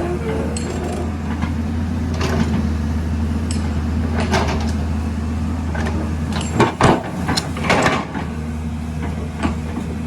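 A heavy construction machine's diesel engine running steadily, with irregular metal clanks and knocks from the working machine, several loud ones in quick succession about two-thirds of the way through.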